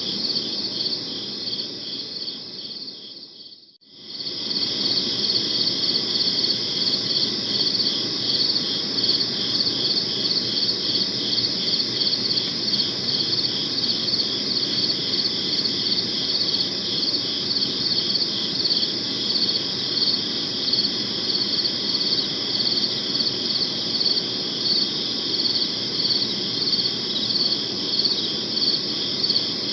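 Crickets chirping in a steady, pulsing chorus. About three seconds in, the chorus fades almost to silence, then starts again abruptly at full level, as at the seam of a looped recording.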